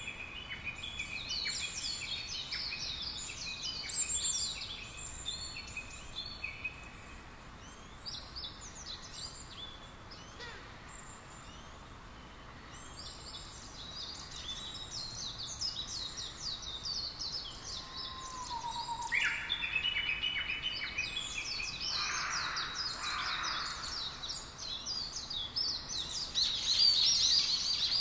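Small birds chirping and twittering in many quick overlapping calls, thinning out in the middle and growing busier and louder near the end.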